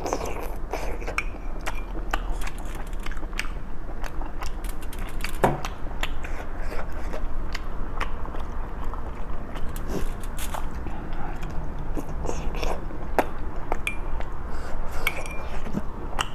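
A person chewing and biting food close to the microphone, with many short, crisp mouth clicks and smacks throughout.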